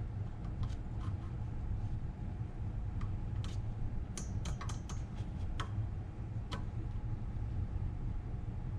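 Small side cutters gripping and levering at a pin in a steel brake backing-plate assembly: a scatter of light metallic clicks and ticks, several close together about four seconds in, over a low steady hum.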